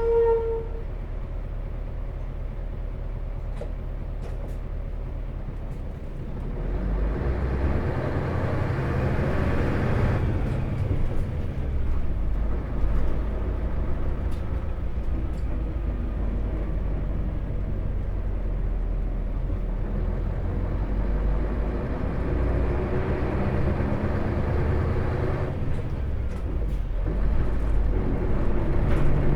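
Interior running sound of an Isuzu Erga city bus's diesel engine. A steady chime tone cuts off within the first second. About six seconds in, the engine rises in pitch as the bus accelerates, then it runs on at steady speed, with a brief dip and another rise near the end.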